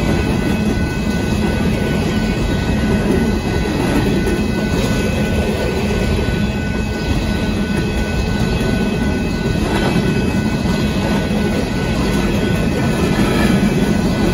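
Coal train cars rolling past: a steady, loud rumble and rattle of steel wheels on rail.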